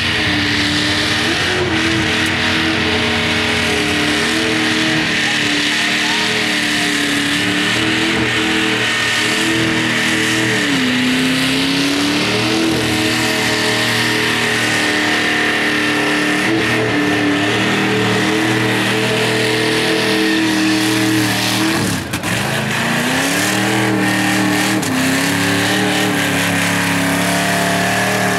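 V8-powered Mazda truck doing a burnout: the engine held at high revs with the rear tyres spinning and squealing. The revs dip briefly a little before halfway and drop sharply about three-quarters through before climbing back.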